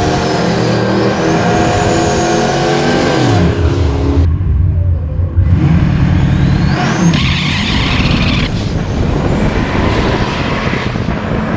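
Turbocharged 408 Windsor stroker V8 of a Fox-body Mustang drag car running hard. Its pitch falls about three and a half seconds in, then after a short break the engine climbs again under full acceleration, with a high rising whine over it.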